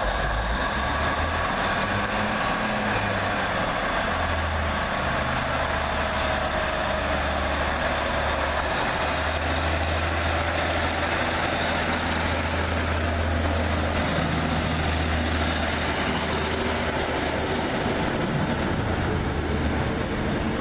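A train running at the station: a steady rumble with a low engine hum that shifts in pitch a few times.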